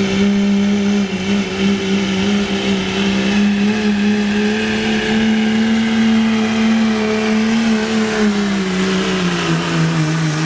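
Diesel pickup truck engine at full throttle under heavy load, pulling a weight sled. It holds a steady high pitch, then its pitch drops over the last couple of seconds.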